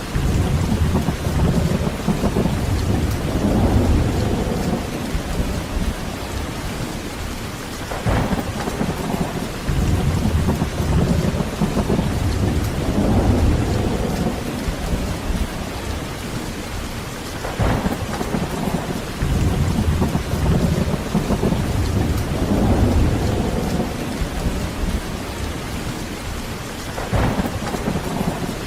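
Heavy rain falling steadily, with rolling thunder. Three times (about 8, 17 and 27 seconds in) a rumble starts with a sharp crack, swells low and dies away before the next one.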